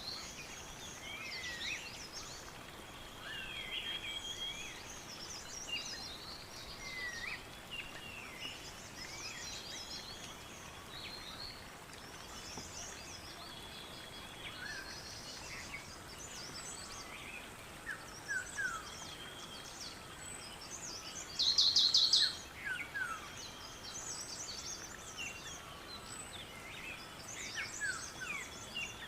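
Several birds singing and calling together: many short chirps and quick sweeping whistled notes over a soft background hiss. About two-thirds of the way through comes one loud, harsh, buzzy call, the loudest sound in the stretch. A thin steady high-pitched tone runs underneath and stops shortly before that call.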